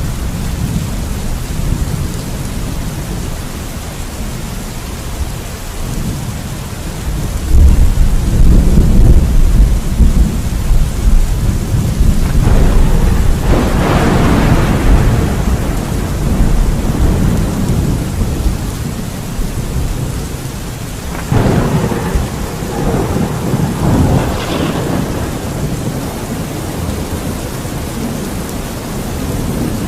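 Thunderstorm: steady rain with two rolls of thunder. A deep rumble builds about a quarter of the way in and breaks into a sharper crack near the middle, and a second crack with rumbling follows about two-thirds of the way through.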